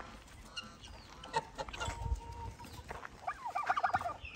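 Chickens clucking softly, with a quick run of short clucks about three and a half seconds in, and a few faint knocks.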